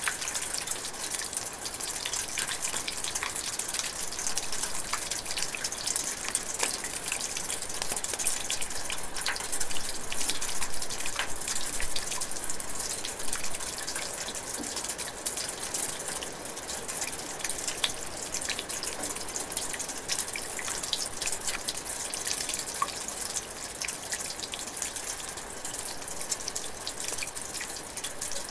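Light rain falling steadily: an even hiss dotted with many small drips and patters.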